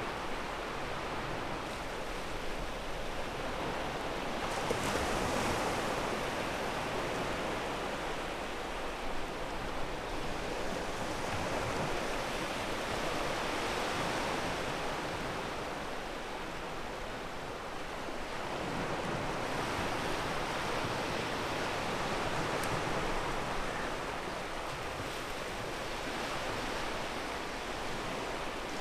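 Waves breaking and washing over a pebble beach, a steady surf hiss that swells and falls back every several seconds.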